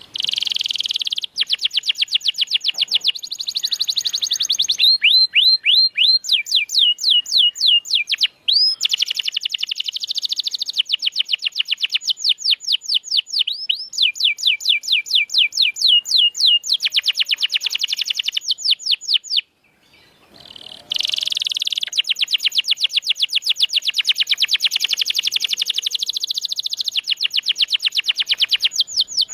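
Domestic canary singing fast, rolling trills of rapidly repeated notes, switching to a new trill pattern every few seconds, with a brief pause about two-thirds of the way through.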